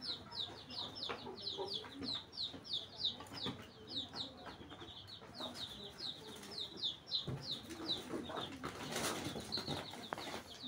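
A bird chirping over and over: a steady run of short high peeps, each sliding downward, about three or four a second. A brief rustle comes about nine seconds in.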